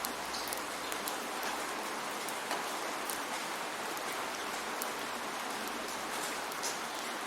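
Steady rainfall, with many close drops ticking on a surface.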